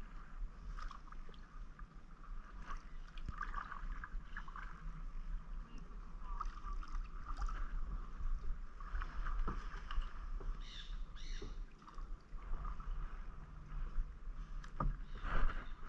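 Kayak paddle dipping and splashing through shallow water in uneven strokes, with drips and light knocks.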